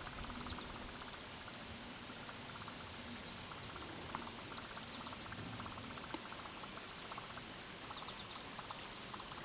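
Faint, steady babble of creek water running over rocks, with scattered light ticks and a few faint high chirps.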